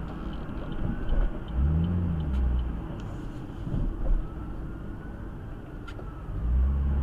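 Car driving, heard through a dash cam: steady road noise and low engine rumble, with the engine note swelling up and back down about two seconds in and growing loud again near the end.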